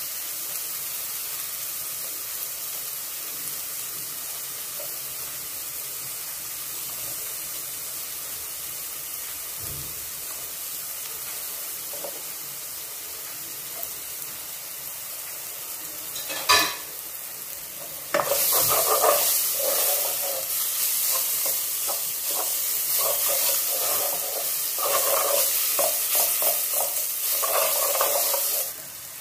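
Garlic and onion frying in oil in a pot, sizzling steadily as they are stirred. A single sharp knock about 16 seconds in, and from about 18 seconds the sizzling turns much louder and rougher until just before the end.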